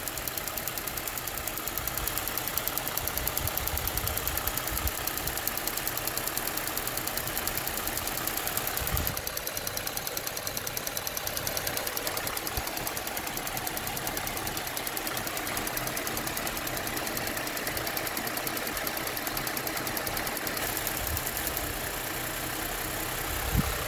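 2007 Saturn Aura 3.5-litre V6 idling with a steady, fast clicking, and a single thump about nine seconds in. The engine has an intermittent misfire on cylinder 6.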